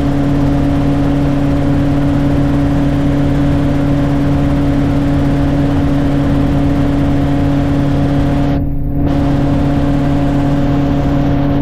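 Helicopter engine and rotor drone heard from inside the cabin in flight: a steady hum of several constant pitches over a loud hiss, which briefly thins out about nine seconds in.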